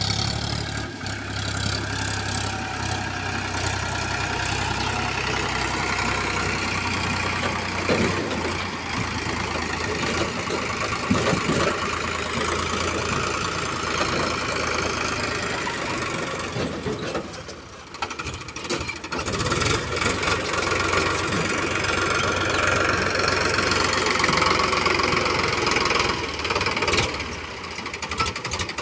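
Heavy diesel engine running steadily, with a brief drop in level a little past halfway before it picks up again.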